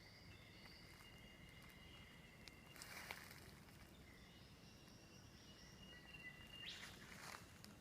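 Faint rainforest ambience: steady high-pitched calls of insects and birds, with two brief rustles, about three seconds in and again near the end.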